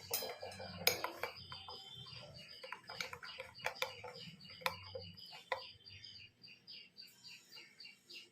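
A utensil clinking and scraping against a dish as a spice paste is mixed, with scattered sharp clinks through the first five seconds or so. A small bird chirps quickly and repeatedly in the background throughout.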